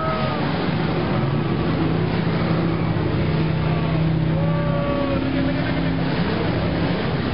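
Engines of old Chrysler Imperial demolition derby cars running and revving together in a steady din, with no single crash standing out.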